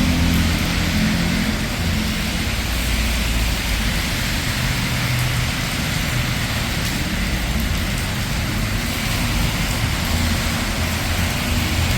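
Steady rain falling on a city street, with a low rumble of traffic underneath; a passing car's engine fades away in the first couple of seconds.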